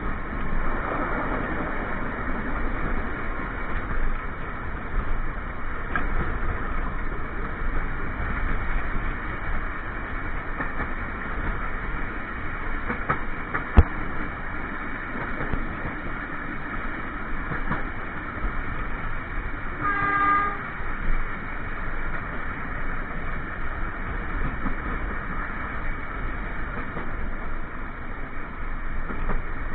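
Steady running noise of a passenger train's wheels on the rails, heard from inside the carriage toilet. There is one sharp knock about 14 seconds in and a short train horn blast, about a second long, around 20 seconds in.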